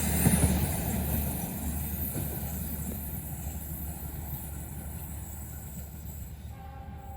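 A large bus passing on a wet road: a low engine rumble and tyre hiss, loudest at the start and fading steadily as it moves away.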